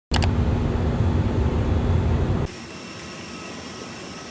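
Jet airliner engine noise: a loud, steady low rumble that cuts off abruptly about two and a half seconds in, leaving a quieter steady hiss with a faint high whine.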